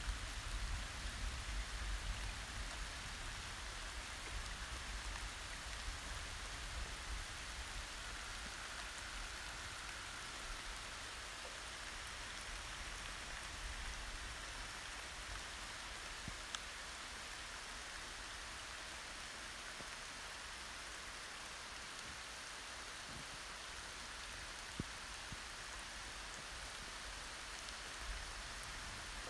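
Steady rain falling during a thunderstorm, an even hiss, with a low rumble of thunder dying away over the first few seconds. A couple of sharp drip ticks stand out later on.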